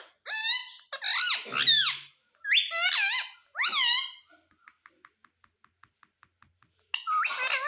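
Pet parrot giving a string of squeaky, whistling calls that bend up and down in pitch, four in the first four seconds and another near the end. Between them comes a run of faint, quick ticks, about five a second.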